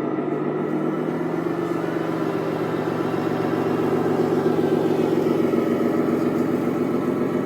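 Simulated diesel truck engine from a radio-controlled Scania truck's sound unit, running steadily and growing a little louder about halfway through.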